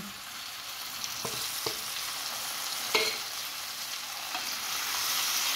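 Flat beans tipped into a hot pan of oiled vegetables, sizzling steadily and growing louder from about a second in, with three short knocks from the bowl and utensils against the pan.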